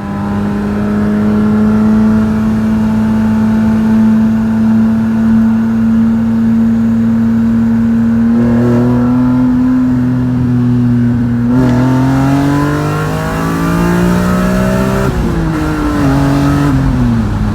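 Car engine running at steady revs, then climbing in pitch as it accelerates, with a sudden drop about 15 seconds in and the revs falling away near the end.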